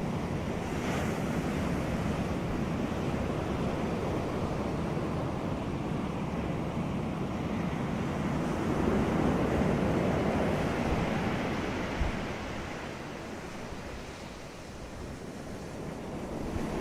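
Ocean surf on a beach: a steady wash of breaking waves that swells about halfway through and ebbs near the end, with wind buffeting the microphone.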